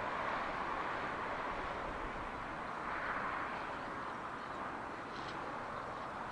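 A train running through at a distance, heard as a steady rolling rumble and hiss with a few faint clicks about five seconds in.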